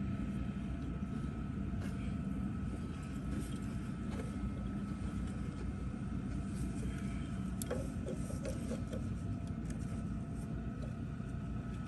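A motor running steadily with a low hum, with scattered light clicks and knocks over it.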